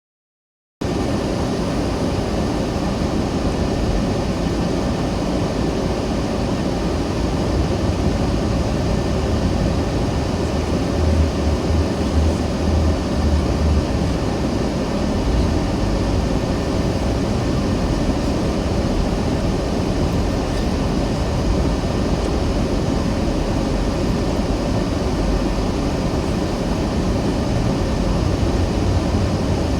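Steady road and engine noise of a car driving, heard from inside the cabin, heaviest in the low end. It cuts in suddenly under a second in, and a louder low rumble comes in for a few seconds near the middle.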